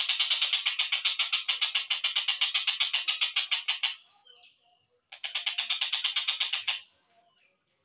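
Collared kingfisher (tengkek buto) call from a slowed-down bird-training recording: a fast run of harsh, even notes, about nine a second, that stops about four seconds in. A second, shorter run starts about a second later, and faint short chirps follow near the end.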